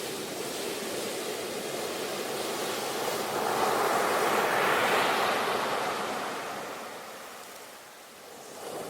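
Ocean waves on a shore. One wave swells about three and a half seconds in, peaks, and washes away to a lull, and the next begins to build near the end.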